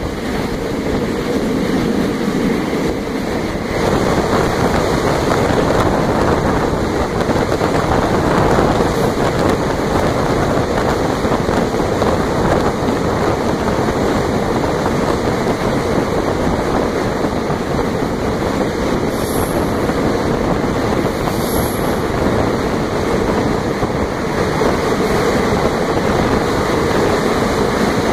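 Train running through a rock tunnel: a steady rumble of the locomotive and wheels on the rails, with wind on the microphone. It gets louder about four seconds in as the train enters the tunnel, then holds steady.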